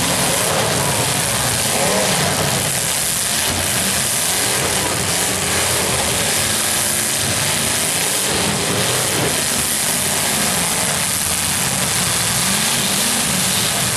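Several demolition derby cars' engines running together, revving up and down unevenly over a steady hiss.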